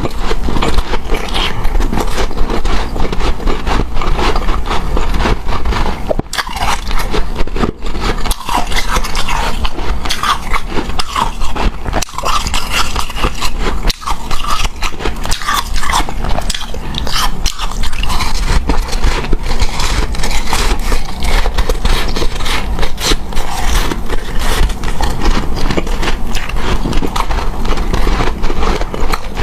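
Close-miked eating of powdery, snow-type refrozen ice: a continuous, dense crunching and scraping from bites and scoops, without pause.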